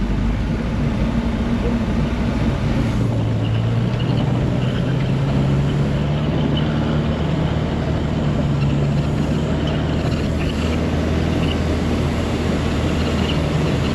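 Bombardier snowcat engine running steadily, its pitch rising about three seconds in and then holding, as it works to pull a stuck snowmobile out of deep snow.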